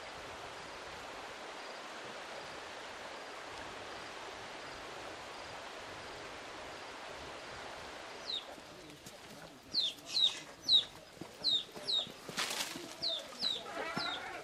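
A steady noise, then from about eight seconds in a small bird calling a fast series of short, high chirps that slide downward, about two a second.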